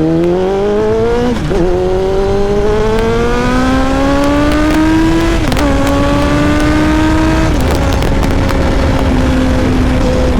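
Kawasaki ZX-7R's inline-four engine accelerating hard through the gears: the engine note climbs, drops sharply at each of three upshifts, then holds steady at cruising speed. Wind rush runs underneath.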